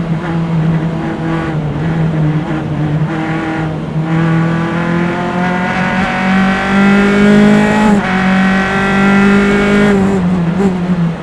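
Single-seater race car engine heard close up on board, pulling hard under acceleration: its pitch climbs steadily from about four seconds in, breaks briefly for a gear change about eight seconds in, climbs again, then drops near the end as the driver lifts off.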